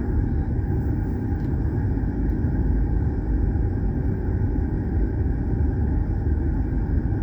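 Steady low road and engine rumble of a car driving, heard from inside the car.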